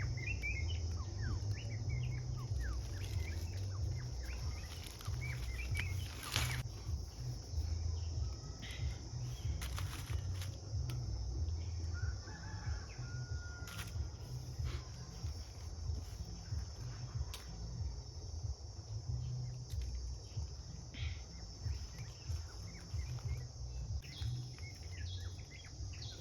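Tropical forest ambience: a steady high insect drone, short bird chirps scattered near the start and the end, a constant low rumble, and a few sharp clicks.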